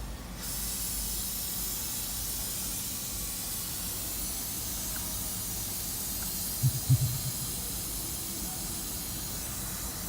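Steady airy hiss that comes on abruptly at the start, with a few short low thumps about seven seconds in.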